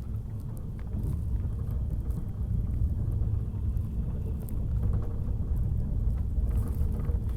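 Train in motion: a steady low rumble that grows a little louder about a second in, with scattered faint clicks and rattles.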